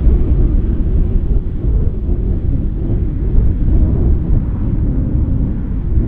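Diesel-hauled Mugunghwa passenger train running: a loud, steady low rumble that swells at the start and holds.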